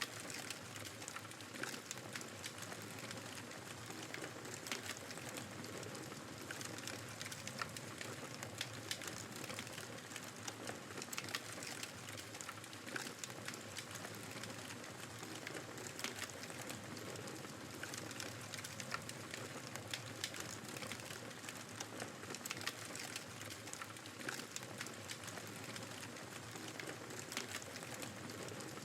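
Wood fire crackling in a fireplace: many small irregular pops and snaps over a steady hiss of blizzard wind.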